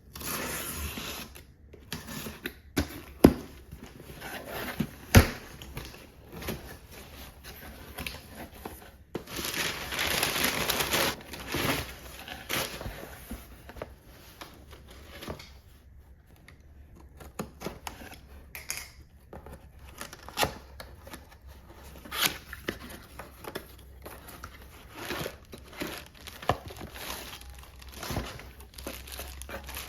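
Crinkling and rustling of something being handled, with scattered clicks and two sharp knocks about three and five seconds in. A longer, denser stretch of rustling comes around ten to twelve seconds in.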